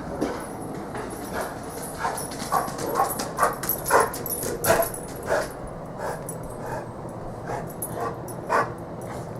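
A dog barking in a string of short barks, thickest in the middle few seconds and thinning out towards the end.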